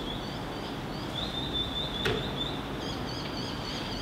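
Birds chirping with high, wavering trills over a steady background hiss, with a single sharp click about two seconds in.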